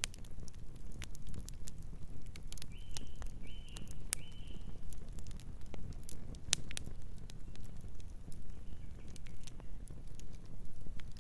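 Wood fire crackling with sharp, irregular pops over a steady low rumble. About three seconds in, a distant bird gives three short calls in quick succession, and a fainter call comes later.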